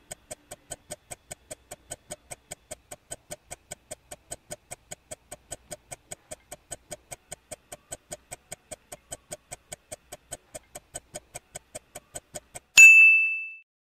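Quiz countdown-timer sound effect: a steady clock-like tick at about four ticks a second, cut off about a second before the end by one loud bell ding that fades quickly and signals time up and the answer reveal.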